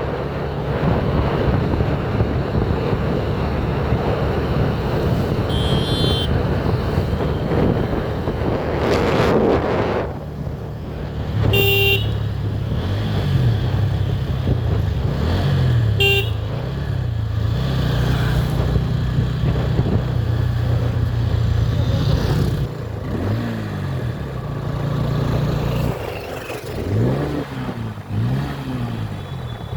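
Motorcycle ride in traffic: wind rushing over the microphone for the first third, then the engine running with its revs rising and falling several times. Short vehicle horn toots about six, twelve and sixteen seconds in.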